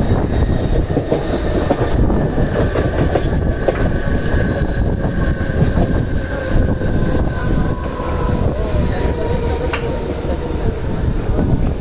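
Mumbai suburban EMU local train running at speed, heard from its open doorway: a steady rumble and clatter of wheels on the rails, with a faint whine that slowly falls in pitch.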